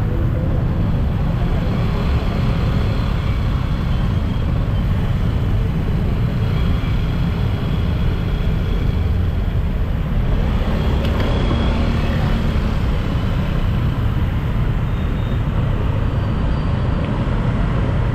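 City street traffic noise heard from a moving rider: a steady, dense low rumble of engines and road noise, with no single event standing out.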